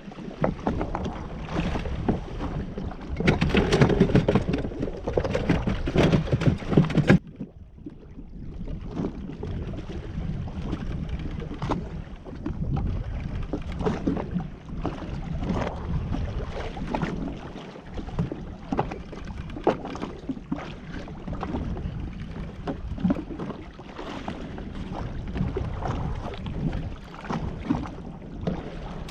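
Wind buffeting the microphone and water splashing around a jet ski at sea. The noise is louder for the first seven seconds, then drops suddenly to a quieter, steadier wash.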